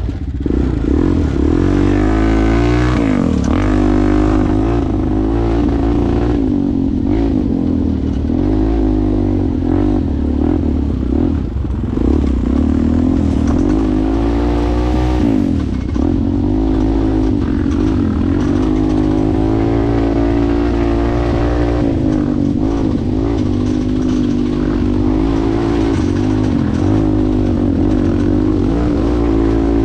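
ATV engine running under way, its pitch rising and falling again and again with the throttle.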